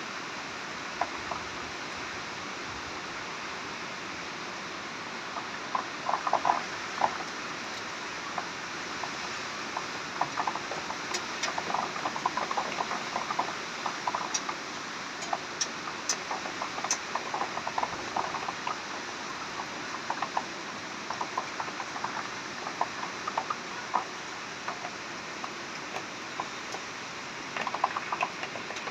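Heavy rain falling steadily, with scattered close drips striking a surface from about six seconds in.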